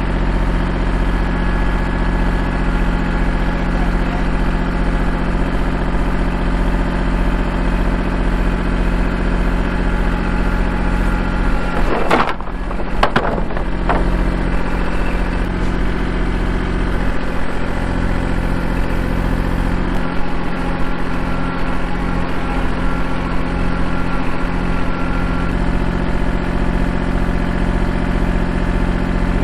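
Kubota L2501 compact tractor's three-cylinder diesel engine running steadily, with a few short knocks about twelve to fourteen seconds in.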